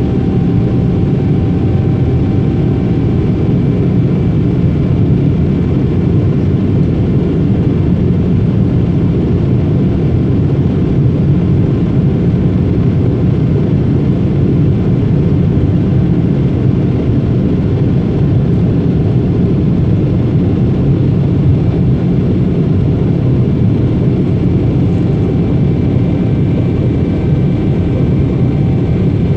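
Steady, loud cabin noise of a Boeing 777 airliner: a deep, even roar of jet engines and airflow, with faint steady tones above it and no change in pitch or level.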